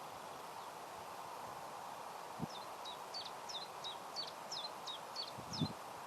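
A small bird singing a quick run of about ten high, hooked chirps, roughly three a second, over a steady outdoor background hiss. Two soft low thumps come about halfway through and near the end.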